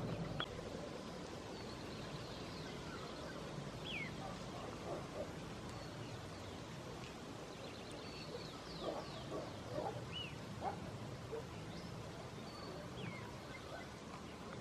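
Scattered wild bird calls: a few short high chirps that drop in pitch, and a cluster of brief lower notes about nine to eleven seconds in, over a steady faint outdoor hiss.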